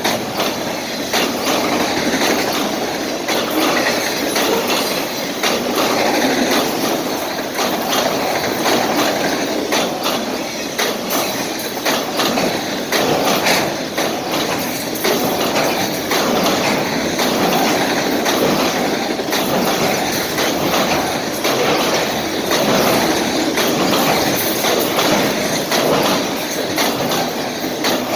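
Canadian Pacific freight train cars rolling past steadily, their steel wheels clicking repeatedly over the rail joints.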